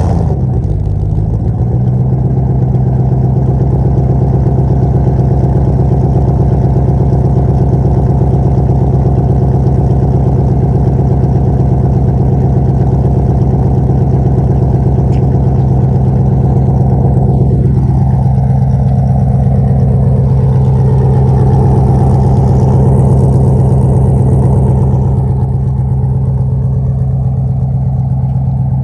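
Jeep Grand Cherokee's 5.2-litre V8 idling on a cold start, just after it has caught: it settles within the first couple of seconds into a steady, even idle.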